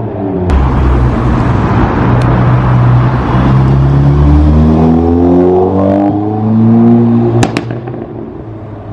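A car engine accelerating hard, its pitch climbing steadily over several seconds, with a couple of sharp cracks near the end as the sound fades away.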